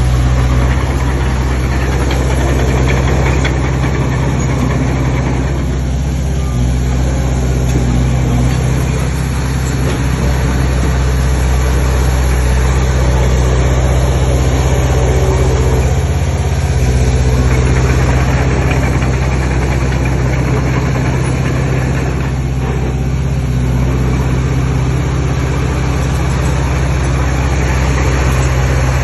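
Heavy diesel machinery engine running steadily, its pitch shifting slightly about six seconds in and again around seventeen seconds in.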